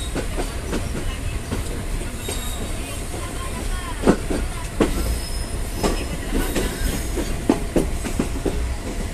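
Freight train of hopper wagons rolling on the track: a steady low rumble with irregular wheel clacks over rail joints, the loudest about four seconds in, and a faint high metallic wheel squeal now and then.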